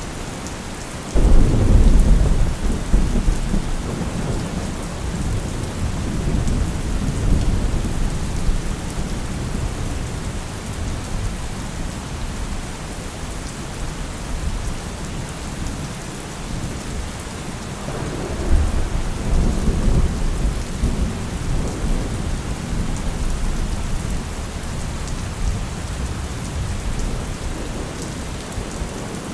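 Steady rain with rolling thunder: a rumble breaks in suddenly about a second in and rolls on for several seconds before fading, and a second rumble builds up past the middle and dies away.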